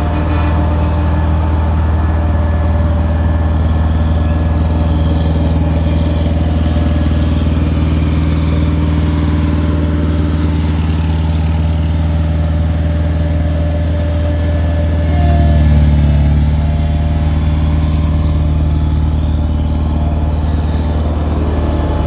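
Heavy construction vehicle's diesel engine running steadily close by, with a brief rise in engine speed about fifteen seconds in.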